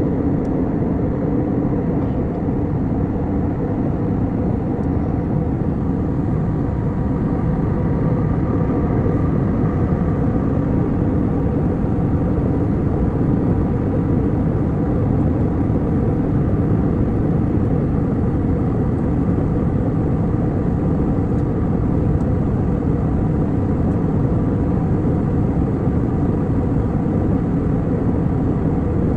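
Steady airliner cabin noise in flight: a constant low rush of engine and airflow noise with faint steady hum tones above it, unchanging throughout.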